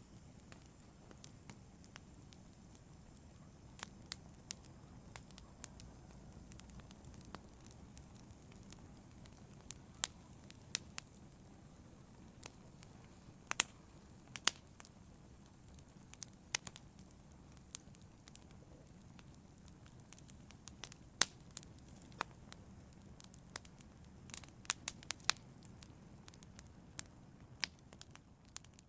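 Wood logs burning in a fireplace: a steady low rumble of flames with irregular sharp crackles and pops from the logs.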